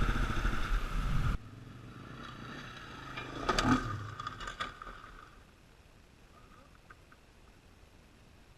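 Dirt bike engine running, cut off abruptly about a second and a half in. A couple of seconds later comes a short louder burst with several sharp knocks, then only faint background.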